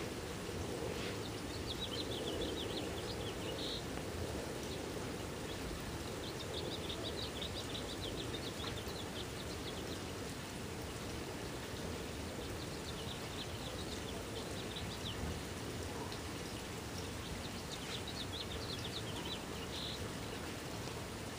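A small bird singing a high, rapid trilled phrase every few seconds, four phrases in all, over a steady low background hiss.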